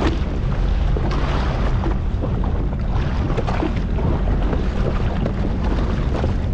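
Sea-Doo Fish Pro jet ski on the water: a steady low rumble under heavy wind buffeting on the microphone and splashing water, with small scattered knocks.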